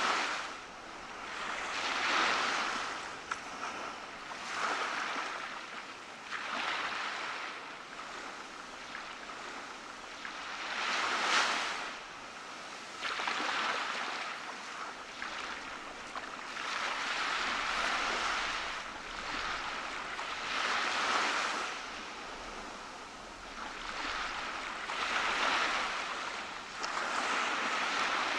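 Small waves breaking and washing up on a tropical beach, a rushing hiss that swells and fades every couple of seconds, one swell a little louder near the middle.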